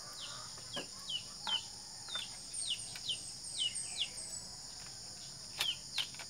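A bird calling over and over in short falling chirps, two or three a second, pausing after about four seconds, against a steady high-pitched insect drone. A few light clicks come from the speargun being handled.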